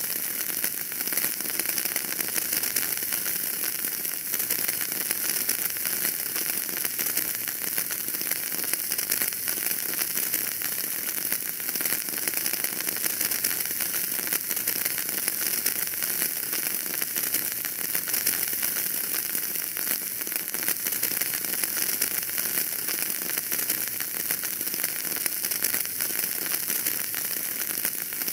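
Wood fire in a fireplace crackling steadily, dense small pops and ticks over a continuous hiss.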